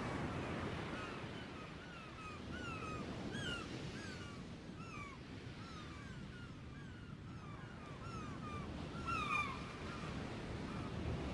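A flock of gulls calling: many short, overlapping cries that rise and fall in pitch, with a louder burst of calls near the end.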